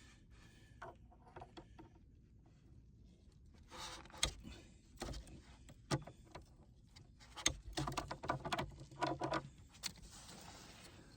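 Small clicks, knocks and rustling from hands handling PEX plumbing parts and tools. They come in clusters, one about four seconds in and a busier one around eight to nine seconds.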